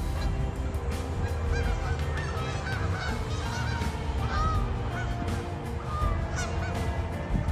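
A flock of geese honking, many short calls overlapping one after another, over steady background music.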